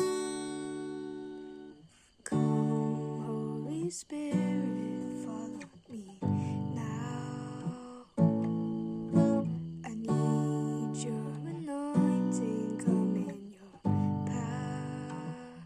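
Acoustic guitar strumming slow chords, a new chord struck every second or two and left to ring and fade.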